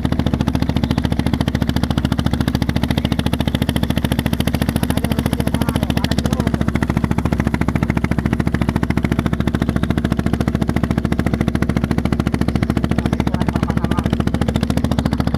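A small river boat's engine running steadily with a fast, even chugging beat.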